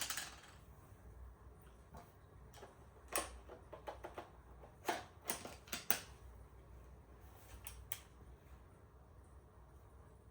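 Camera gear being handled: a scatter of sharp clicks and light knocks, most of them bunched between about three and six seconds in.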